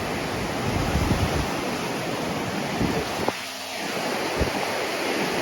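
Surf breaking on a sandy beach, a steady wash of waves, with wind rumbling on the microphone; the rumble drops away briefly about three seconds in.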